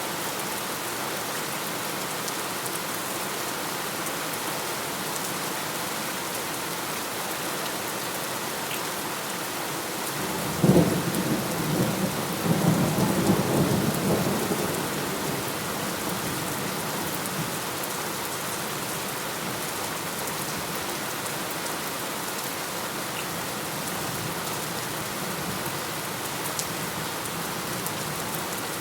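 Steady heavy rain with a thunderclap: a sharp crack about ten seconds in, followed by a few seconds of rolling rumble before the rain carries on alone.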